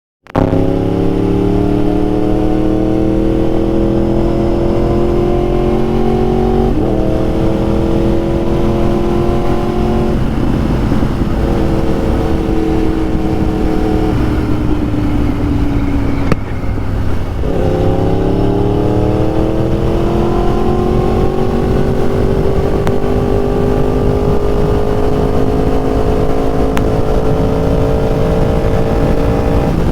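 Yamaha YZF-R1 inline-four sport bike engine running under way, its pitch rising and falling with the throttle. About halfway through it drops off briefly, then climbs steadily as the bike accelerates.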